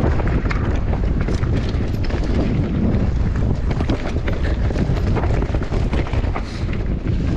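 Mountain bike ridden downhill over rough ground: tyres rolling and the bike rattling with many small clicks and knocks, over a steady low wind rumble on the microphone.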